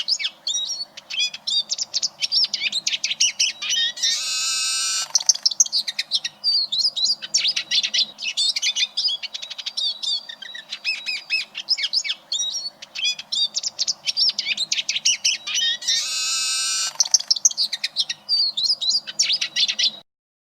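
Eurasian siskin singing: a fast, continuous run of twittering notes, broken twice by a long buzzy wheeze. The song cuts off suddenly near the end.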